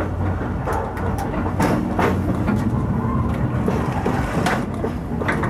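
Oigawa Railway Ikawa Line train running along the track: a steady low rumble with irregular clicks and knocks from the wheels over the rails.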